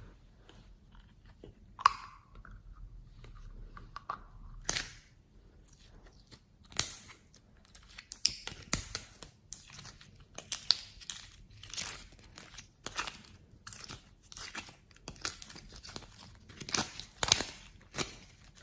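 Slime being squeezed and pressed by hand, giving a run of sharp crackles, pops and crunches. They are scattered at first and come thick and fast from about halfway through.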